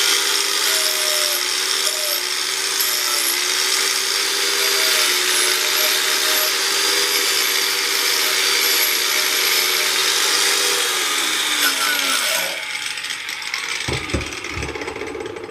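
Electric power tool running at a steady speed with a harsh scraping hiss, as if grinding or brushing metal. It spins down with a falling whine about twelve seconds in, and a few knocks follow.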